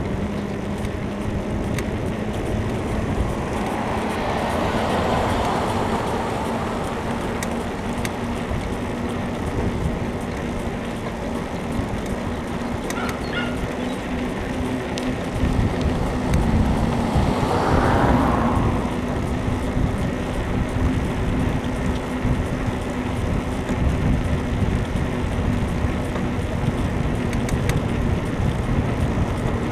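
Wind rushing over the microphone and road noise during a bicycle ride. A car passes twice, swelling and fading, the second time more sharply, about two-thirds of the way in.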